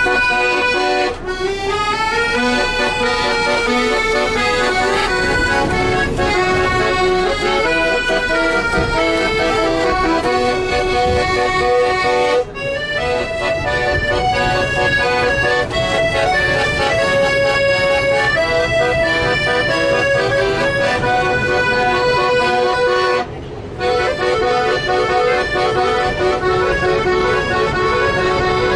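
Accordion playing a melody over held chords, with brief breaks in the playing three times.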